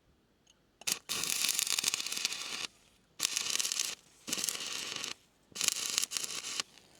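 Stick-welding arc from a 2 mm rod run off two car batteries at 24 volts, crackling and spitting in four bursts of about one to one and a half seconds with short quiet gaps between. The arc keeps going out and being struck again: it is hard to start.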